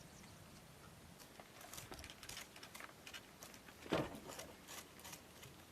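Faint scattered clicks and taps, with one sharper knock about four seconds in.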